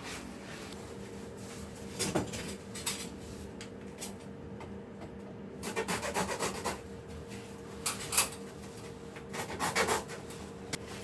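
PVC insulation tape being wrapped around an insulated AC chilled-water pipe: several short bursts of plastic rubbing and rustling, over a faint steady hum.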